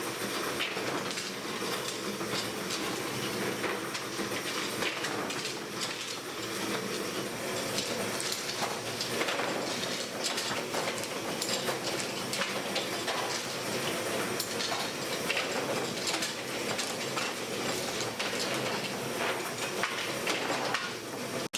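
Steady running machinery with continual light clicking and clattering, like hard candy pieces rattling in a candy workshop.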